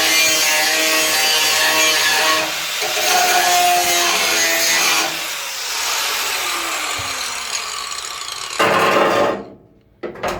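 Angle grinder grinding off spot welds in car-body sheet steel, a steady motor whine over the grinding noise. About five seconds in it is switched off and spins down with a falling whine; a short loud burst comes near the end, then it cuts to quiet.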